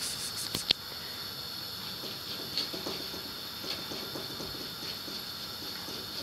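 Cat chewing grass: faint, irregular crunching over a steady background hiss, with a sharp click just under a second in.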